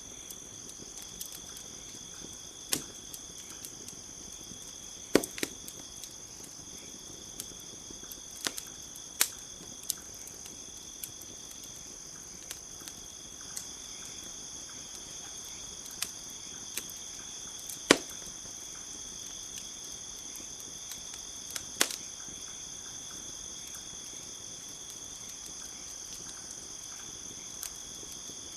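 Campfire crackling, with sharp irregular pops that are loudest about five and eighteen seconds in, over a steady high chirring of crickets.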